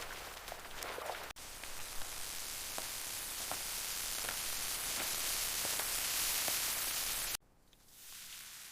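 A steady hiss with faint scattered crackles that grows slightly louder, broken off by a hard cut about a second in and another near the end, after which only a fainter hiss remains.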